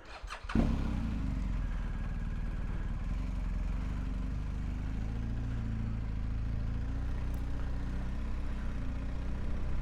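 Motorcycle engine idling steadily, its sound coming in about half a second in.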